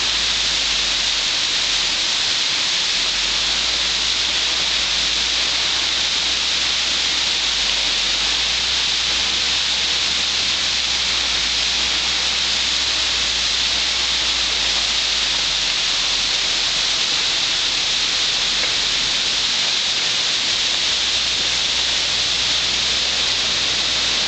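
Waterfall water rushing and splashing as a loud, steady hiss.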